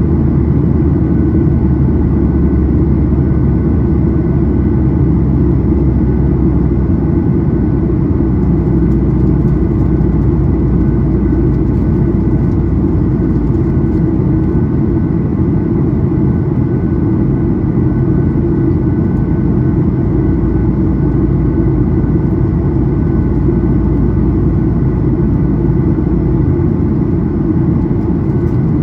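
Boeing 737-800's CFM56-7B jet engines running steadily, heard from inside the passenger cabin as a constant low drone with a faint steady whine above it.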